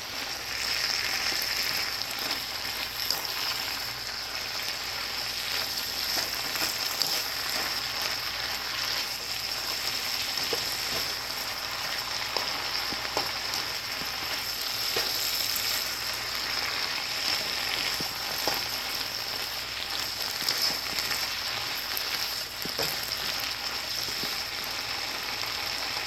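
Chicken and vegetables sizzling steadily in a hot stir-fry pan, with a few light taps and scrapes from the stirring utensil.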